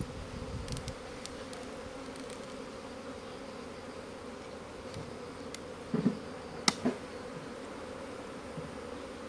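Honeybees buzzing steadily around the hives, a dense droning hum. A couple of knocks and a sharp click come about six to seven seconds in.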